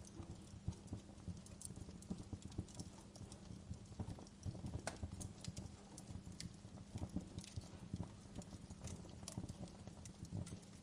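Wood fire crackling: irregular sharp pops and snaps, some louder than others, over a steady low rumble of the burning fire.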